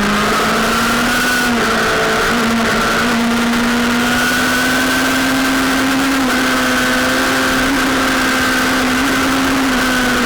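Sportbike engine running hard under load, its pitch slowly climbing with brief dips about a second and a half in and again near six seconds, over a steady rushing noise.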